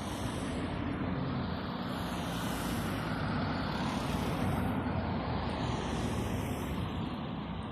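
Tram running on its rails: a steady rumble of wheels and motors with a low hum, growing a little louder around the middle and easing off near the end.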